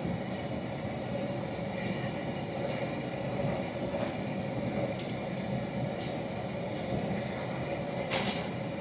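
Steady hiss and rumble of running machinery, with a few faint constant tones over it and a faint click about four seconds in.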